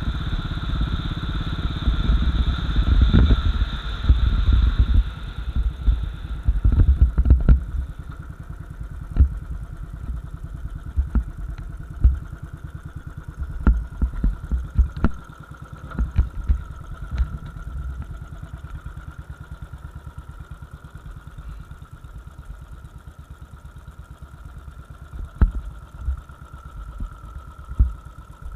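Royal Enfield Bullet 500 single-cylinder engine running while the bike is ridden, with wind noise on the microphone. After about six to eight seconds it slows and settles to a steady idle with an even beat, broken by scattered sharp knocks.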